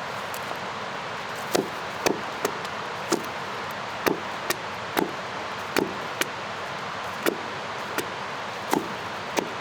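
Wood being chopped: about fourteen sharp, irregularly spaced blows beginning about a second and a half in, some struck in quick pairs. Under them runs the steady rush of a river.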